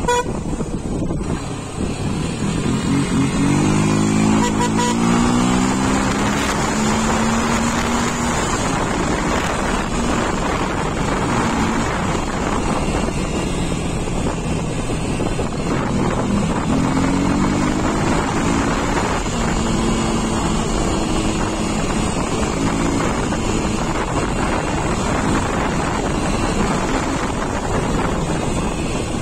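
Yamaha Fazer motorcycle engine running while riding, with wind rushing over the microphone; the engine note climbs as the bike accelerates a few seconds in and again about halfway through.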